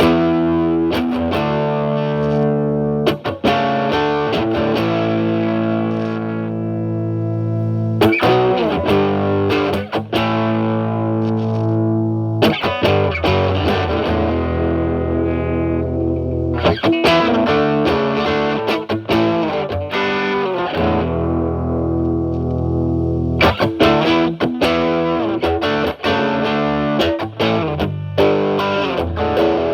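Stratocaster with single-coil pickups played through a Timmy transparent overdrive pedal into a Marshall Valvestate amp's clean channel: overdriven chords and single notes ringing out in phrases. About eight seconds in, a new phrase starts with the pedal's gain turned down to a lower setting.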